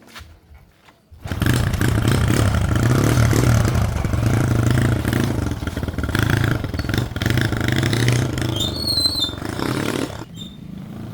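Small motorbike engine running loudly from about a second in, with its pitch rising and falling as the bike is ridden on a test ride, becoming quieter near the end.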